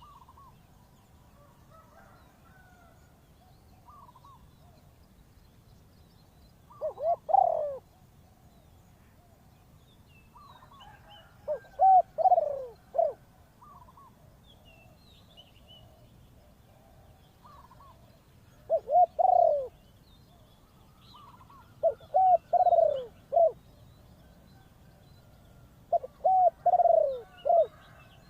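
Spotted dove cooing: short phrases of three or four low notes, repeated about five times a few seconds apart. Small birds chirp faintly between the phrases.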